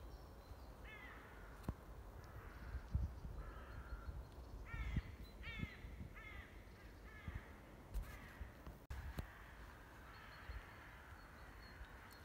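Faint birds calling: a series of short, harsh, crow-like calls, with several coming in quick succession around the middle. A few low thumps sound under them.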